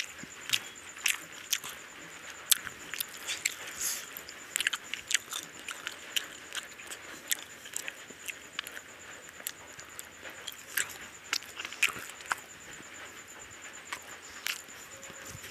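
Close-up eating sounds of a person chewing curry and rice eaten by hand: wet chewing and lip smacks, coming as irregular clicks several times a second, over a faint steady high-pitched whine.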